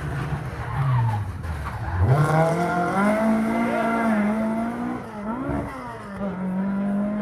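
Ford Escort Mk2 rally car engine: the revs drop about a second in, then climb sharply about two seconds in and stay high at full throttle. There is a brief lift and dip just past five seconds before it pulls steadily again.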